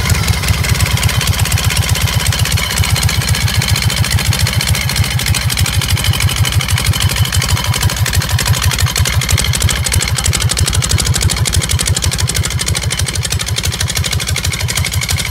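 Harley-Davidson Shovelhead air-cooled V-twin idling in a steady, even pulse through short open exhaust pipes.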